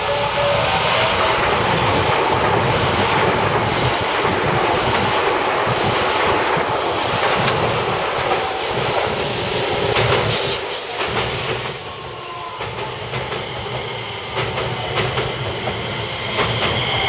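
A JR West 287-series electric limited express train passing through at speed, its wheels clacking rhythmically over the rail joints. The sound eases off as it moves away, then swells again near the end as a second electric train runs past on the next track.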